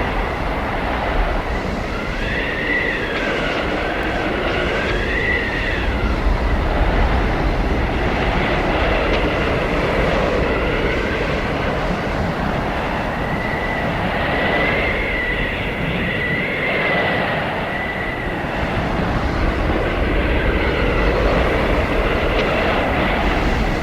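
Blizzard wind howling: a steady rush of gusting noise with high whistling tones that rise and fall, swelling a few seconds in and again around the middle.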